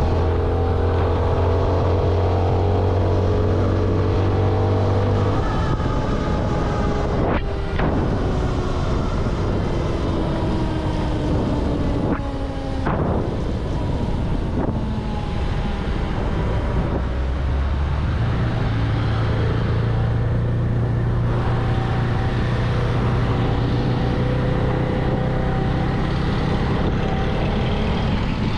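CFMoto 250NK motorcycle engine running through its stock exhaust while riding. The engine note falls steadily for several seconds, with two short clicks along the way, then pulls again in the second half.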